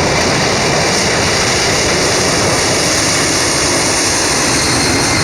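Four turbofan engines of a Boeing 747 Dreamlifter cargo aircraft running, a loud steady rushing noise with a strong hiss.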